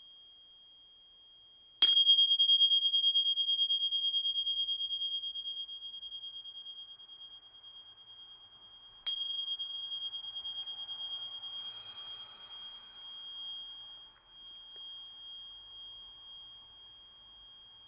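Tingsha (tings), small hand cymbals, struck twice about seven seconds apart. Each strike rings with one clear, high tone that fades slowly, and the second is still ringing at the end.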